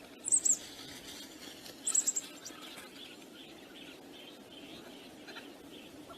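Small bird chirping: two quick, loud bursts of very high chirps about a second and a half apart, over a steady wind rush and softer background bird calls.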